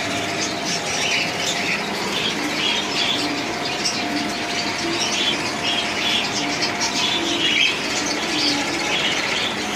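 A flock of cockatiels in an aviary calling, many short squawking and chirping calls overlapping without a break.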